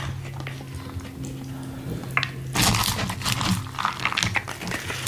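Crunching and crackling of a hard taco shell being bitten and chewed, loudest about two and a half seconds in, over a steady low hum and a faint held tone like background music.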